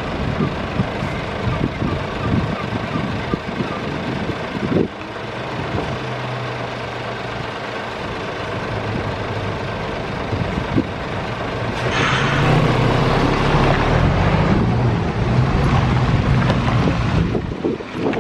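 Heavy truck engine running at a low, steady drone. A sudden loud hiss comes about twelve seconds in, and the engine then grows louder and rises in pitch.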